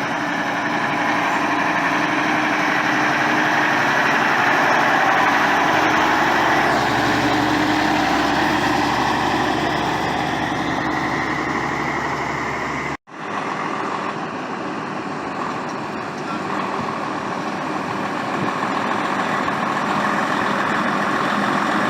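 Heavy truck engines running steadily, with a brief sudden cut about halfway through.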